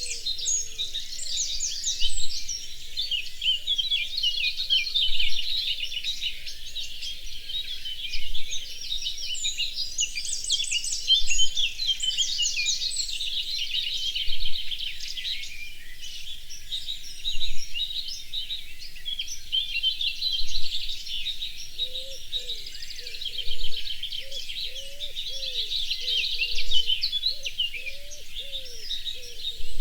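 Dense chorus of many birds chirping and singing in high, rapid notes, with a louder call standing out about every three seconds. In the last third, a lower call repeats in a quick series beneath the chorus.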